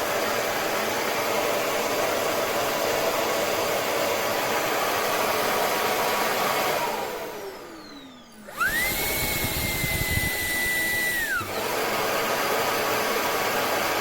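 Shark PowerDetect self-emptying base's suction motor emptying the stick vacuum in two stages. A steady rush of suction winds down with a falling tone about seven seconds in. Then the motor restarts with a high whine over rattling for about three seconds, and the rush continues to the end.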